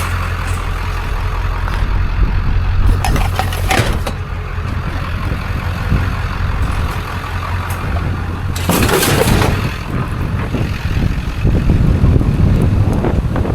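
Steady low engine hum and road noise of a motor vehicle, with two louder rushes of noise about three seconds and nine seconds in.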